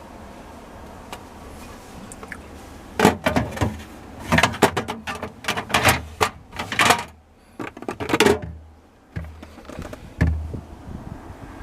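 Refrigerator doors and drawers being handled. From about three seconds in there is a run of clattering knocks and sliding noises, then two dull thumps near the end.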